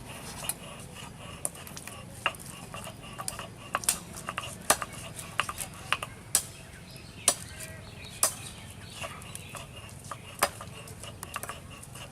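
Irregular clinks and knocks of kitchen utensils against pots and dishes, some with a short metallic ring, over a steady low background.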